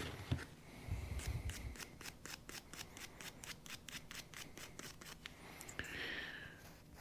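Ratchet wrench clicking in an even run, about five clicks a second, followed by a short scrape about six seconds in.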